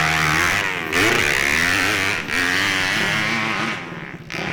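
Motorcycle engine revving hard, its pitch rising and falling with the throttle, with brief dips about one and two seconds in and a drop near the end.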